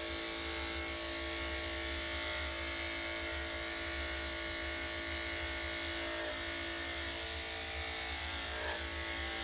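Electric dog grooming clippers fitted with a #7 blade running with a steady buzz as they shave a Shih-Tzu's coat.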